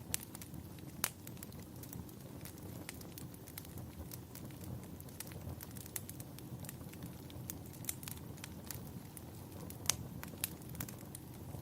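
Wood fire burning in a fireplace, crackling with frequent sharp pops at irregular intervals over a steady low rumble. The loudest pops come near the start, about a second in, and near the end.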